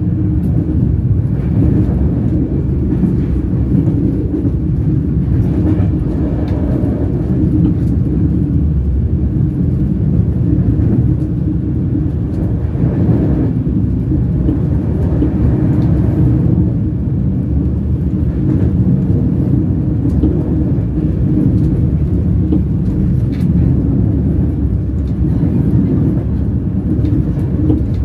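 Train wheels rolling on the rails at speed: a steady low rumble, with a few faint clicks.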